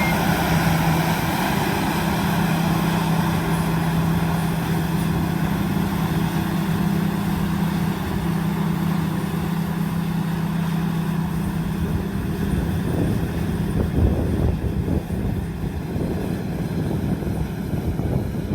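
Combine harvester engine running steadily with a constant low hum, which gives way to a rougher, uneven rumble about two-thirds of the way through.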